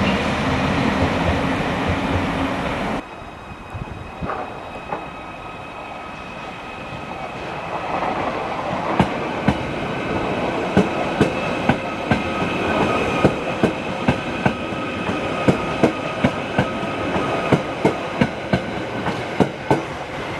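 A train rolling slowly past, its wheels clicking over rail joints about once or twice a second over a steady whine. It opens with a louder rushing noise that cuts off abruptly about three seconds in.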